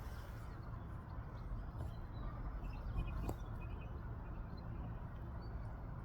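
Steady low outdoor rumble with a few faint bird chirps above it, and a single click about three seconds in.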